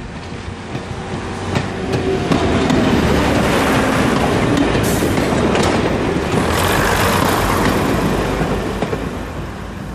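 A Class 101 diesel multiple unit passing close by, its underfloor diesel engines running and its wheels clicking over the rail joints. It builds to its loudest as the cars go past, then eases off as the train moves away.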